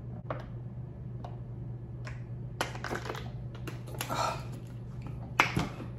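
Close-miked mouth sounds of someone chewing a mouthful of barbecue ribs: scattered wet lip smacks and clicks at irregular intervals over a steady low hum.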